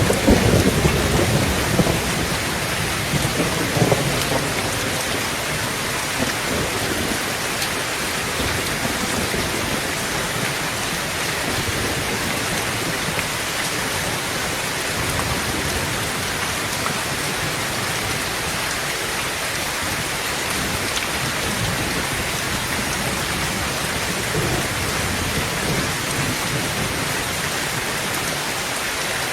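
Heavy rain drumming steadily on a tin tent roof, with a roll of thunder rumbling and dying away over the first few seconds.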